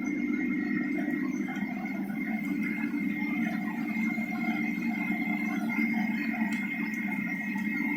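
Steady machine hum with a constant high whine, unchanging for the whole stretch.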